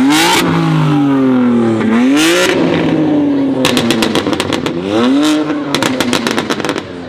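A high-performance car engine revved hard three times, each rev rising and falling back, with two quick runs of sharp exhaust pops and crackles in the second half.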